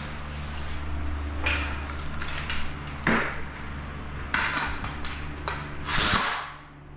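Four short scraping, clattering handling noises, the last the loudest, over a steady low hum.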